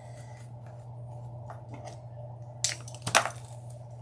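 Deco mesh being worked into a grapevine wreath: faint crinkly rustling, with two sharp clicks or snaps a little under three seconds in.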